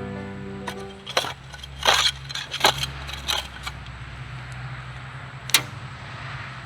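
A shovel scraping and chopping into garden soil in a handful of separate short strokes, over a low steady hum of truck traffic. Background music fades out within the first second.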